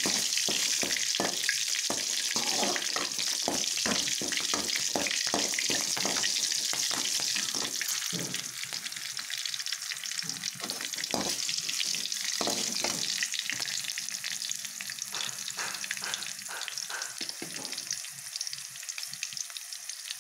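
Oil sizzling and spattering around freshly added green chillies, curry leaves and dals, the tempering for chitranna, while a steel ladle stirs and scrapes the pan. Frequent sharp crackles run over the hiss, which is loudest in the first half and then eases off.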